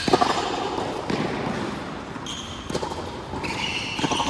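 Ball being struck and bouncing during a racket-sport rally on an indoor court: sharp hits roughly every one to one and a half seconds, with short high squeaks in between.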